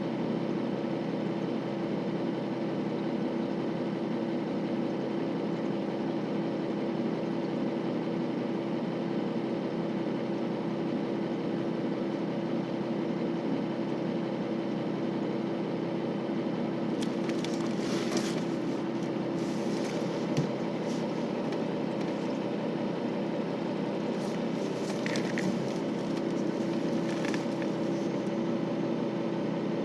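Steady, even hum of a KiHa 40 series 2000-subseries diesel railcar's engine, heard from inside the car. Short bursts of hiss come in about two-thirds of the way through and again near the end.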